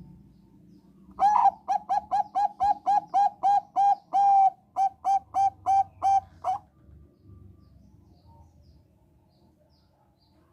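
Thai-bred zebra dove (perkutut bangkok) singing: a quick series of about twenty short, clipped cooing notes, one held longer in the middle, starting about a second in and stopping after five seconds or so.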